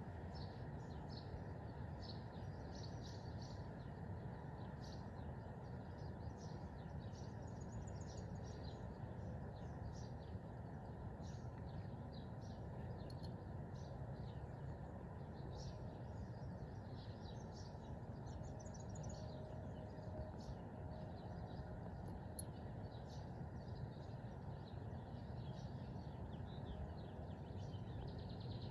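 Faint birds chirping outside, many short high calls scattered throughout, over a steady low background noise.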